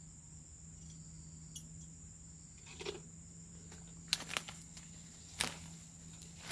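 Steady high-pitched insect drone, with a few short scuffs or knocks in the second half.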